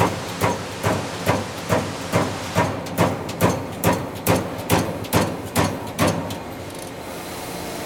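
Amada Vipros 358 King CNC turret punch punching sheet metal: a steady run of sharp hits at about two to three a second, over the machine's running hum. The hits stop about six seconds in, leaving the machine running.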